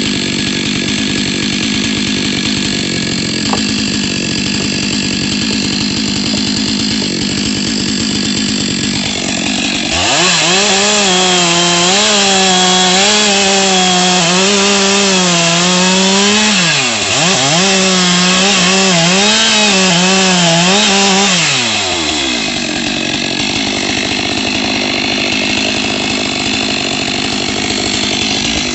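Two-stroke chainsaw running steadily, then opened to full throttle about ten seconds in. Its pitch wavers up and down under load, as in cutting wood, with a short dip partway through. It drops back to a lower, steady run for the last several seconds, then revs again right at the end.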